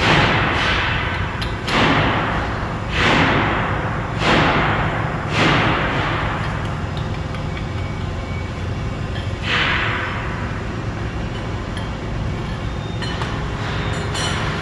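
Six heavy knocks or bangs, the first five about a second or so apart and the last near ten seconds, each followed by a noisy tail that fades over about a second, over a steady low rumble.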